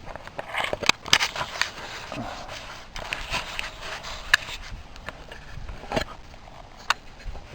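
Handling noises: scattered clicks and knocks over rustling and scraping, as gloved hands fumble with a ceiling-fan generator and a multimeter.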